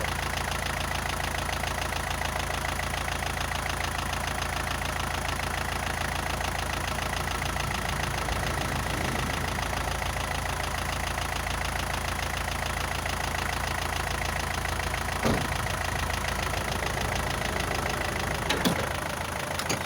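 Isuzu NPR truck's diesel engine running steadily at idle, with a couple of short clunks near the end.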